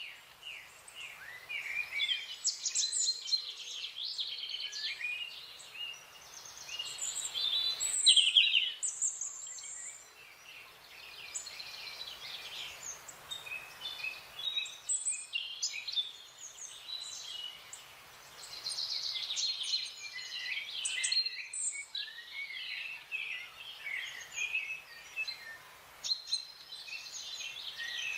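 Several small wild birds chirping and singing over each other, a busy stream of quick high chirps and trills, loudest about eight seconds in.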